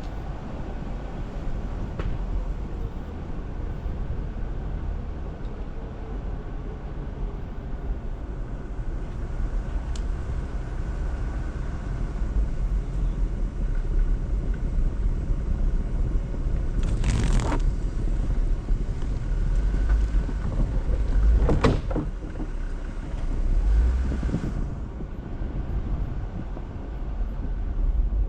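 Jeep Wrangler driving slowly along a snowy off-road trail, a steady low rumble of engine and tyres. Three short, louder scrapes or crunches stand out, one a little past the middle and two more soon after.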